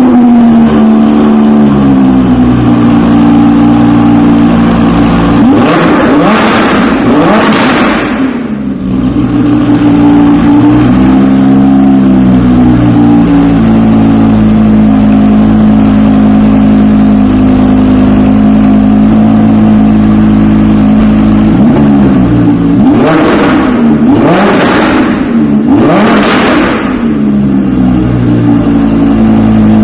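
Audi R8 V10 Plus's V10 engine running through a Capristo sport exhaust: a steady loud idle, blipped twice in quick succession about six seconds in and twice again near the end, the pitch sweeping up sharply and dropping back each time.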